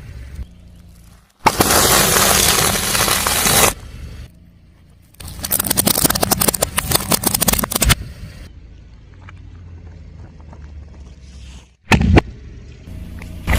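Car tyre rolling over and crushing crunchy objects: two stretches of loud, dense crackling and crunching, each a couple of seconds long, then a quieter low rumble and a sharp crack near the end.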